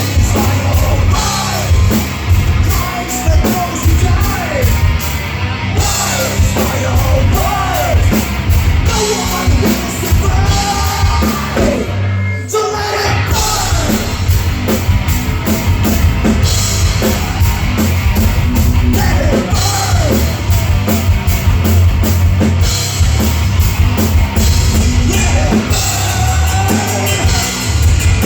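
Live hard rock band playing, with sung lead vocals over a steady drum kit, bass and guitars, and a brief break in the music about twelve seconds in.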